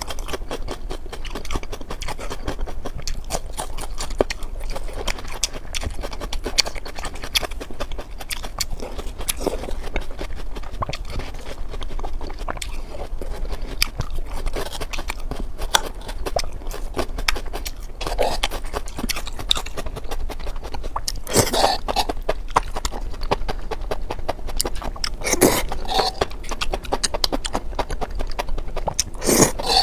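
Close-miked eating: steady chewing and crunching of raw bitter melon and chili-sauced mushrooms, with dense wet mouth clicks. A few louder wet mouth sounds stand out in the last third.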